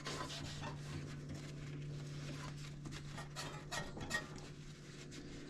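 Faint rubbing and scraping handling noises with a few light knocks, over a steady low hum.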